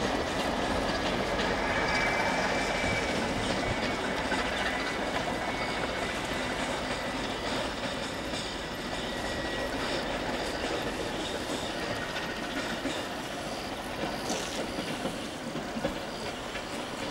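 Train running on the rails with steady wheel and rail noise, a thin high wheel squeal sounding in the first several seconds, the noise easing slowly toward the end.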